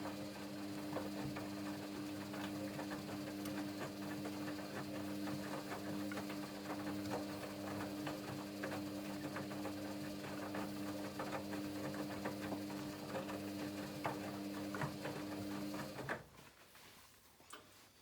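Washing machine drum turning on its wash cycle: a steady motor hum with the load and water tumbling in a dense patter of small knocks. It stops about sixteen seconds in.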